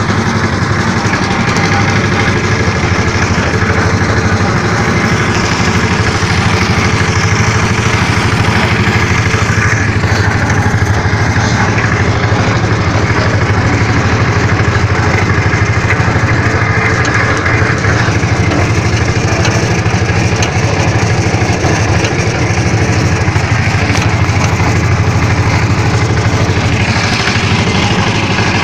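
An engine running steadily at an even pitch, with a constant low hum.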